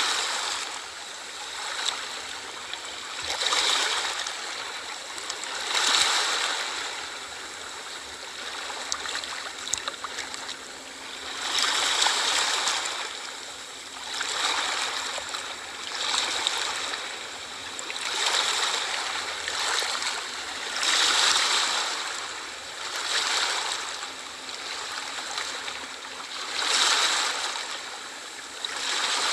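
Ocean waves washing in, each one swelling and falling away every two to three seconds in a steady hiss of surf.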